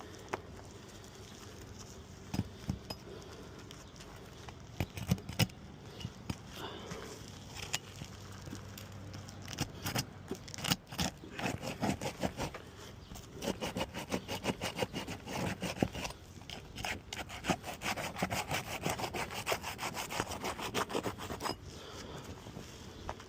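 Asphalt roof shingles being pried up and their sealant strip broken: a tool is worked rapidly back and forth under the shingle tabs, with a scraping, sawing sound, after a few scattered knocks. The scraping runs steadily through the middle of the stretch and stops shortly before the end.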